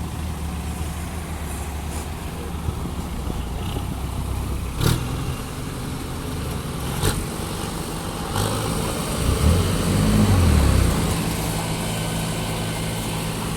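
Excavator's diesel engine running, rising in load with pitch swings about two-thirds of the way through, with three sharp metallic knocks before that.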